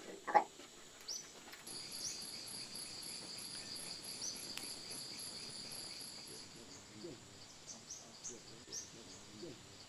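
An insect trilling: a high, steady, evenly pulsed song that starts a couple of seconds in and stops after about five seconds, with short high chirps scattered around it.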